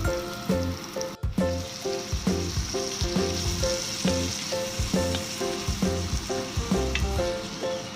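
Food sizzling as it fries in a pan, a steady high hiss under background music with a regular rhythm of pitched notes and a bass line.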